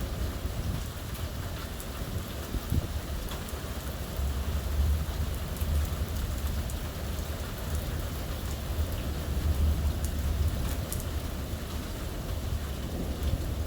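Steady heavy rain falling, with drops pattering on surfaces, over a continuous low rumble from the thunderstorm.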